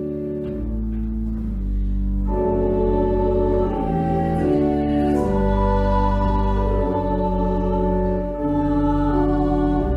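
Organ playing slow, sustained chords over a deep bass line; the sound fills out with more upper notes about two seconds in.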